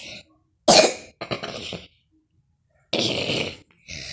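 A person coughing: a sharp, loud cough about a second in, trailing into a rougher one, then another cough about three seconds in. It is a flu cough with phlegm in the throat.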